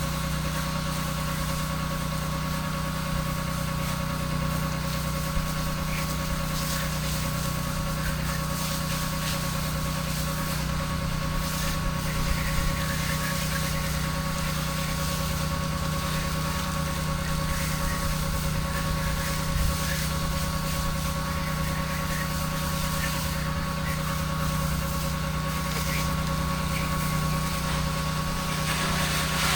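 Pressure washer's engine and pump running steadily under load, a constant drone with an even spray hiss over it.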